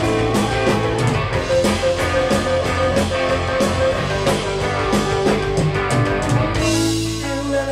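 Rock band playing an instrumental intro: guitar over sustained bass notes and a steady drum beat, with a cymbal wash near the end.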